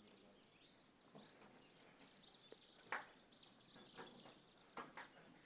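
Faint outdoor ambience with small birds chirping repeatedly, and a few light knocks or clicks, the sharpest about three seconds in and two more near the end.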